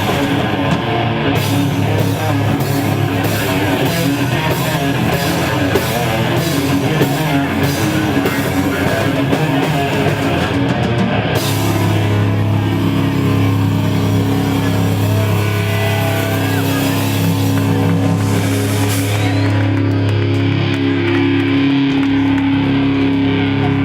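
Live thrash metal band playing: distorted electric guitar riffing over drums with regular cymbal crashes. About halfway through, the drumming stops and a held, ringing guitar chord sustains.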